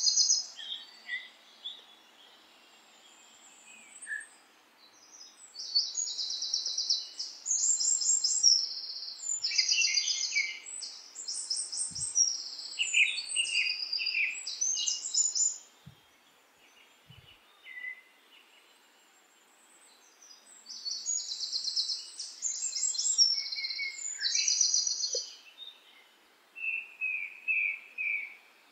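Songbirds singing in rapid high chirps and trills, in two lively bouts with a quieter gap between, ending with a short run of five lower repeated notes, over a faint steady background hiss.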